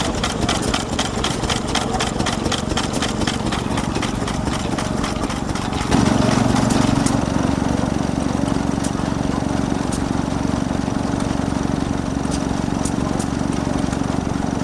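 Vintage stationary engines running. For about six seconds there is a fast, even beat of firing strokes. Then it changes suddenly to a louder, steadier hum with only occasional clicks.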